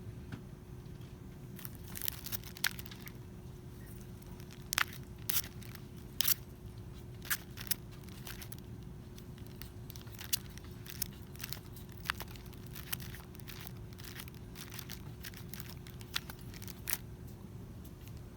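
Packaging being handled: scattered sharp crinkles and clicks, irregular and a second or so apart, over a steady low hum with a faint steady tone.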